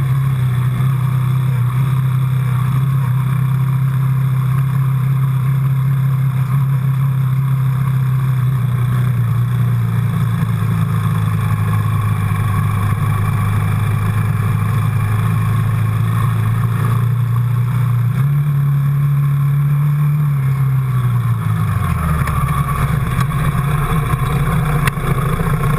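Quad bike engine running under way with a steady note. Its pitch drops about a third of the way through, rises briefly about two-thirds through, then falls to a lower, slower note over the last few seconds.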